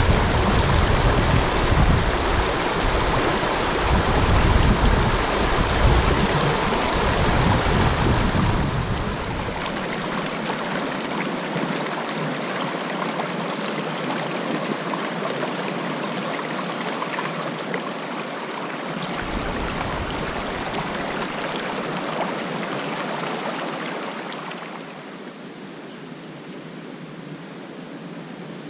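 Wind buffeting the microphone over rushing water, then a steady rush of water without the wind, which becomes quieter near the end.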